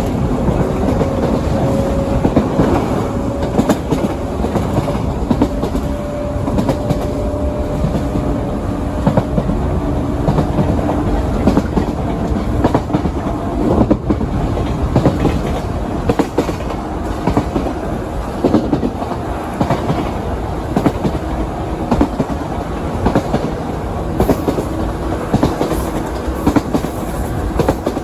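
JR 117 series electric train running along the line, heard from inside the passenger car: a steady rumble with the clickety-clack of wheels over rail joints and a faint motor hum that shifts slowly in pitch.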